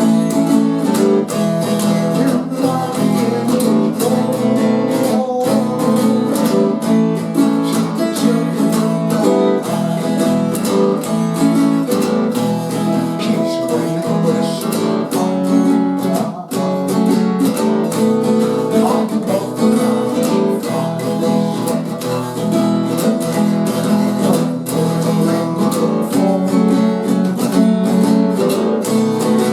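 Acoustic guitar music: an instrumental passage of a folk song, strummed and picked, with no singing.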